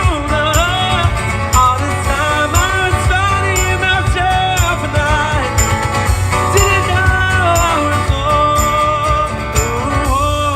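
Live music from an acoustic three-piece band: acoustic guitar and a melody line over a steady beat.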